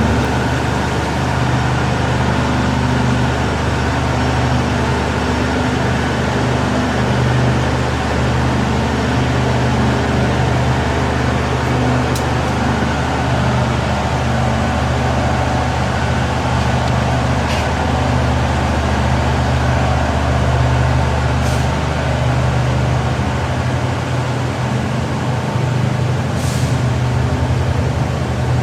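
Passenger train in motion: a steady rumble with a continuous low hum, and a few faint clicks scattered through it.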